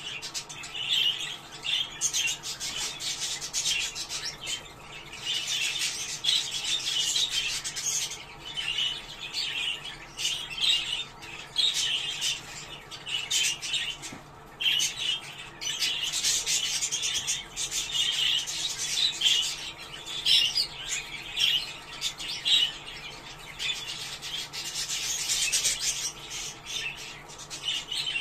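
A group of budgerigars chattering and warbling: a dense, continuous stream of high chirps and scratchy squawks, with a brief lull about halfway through.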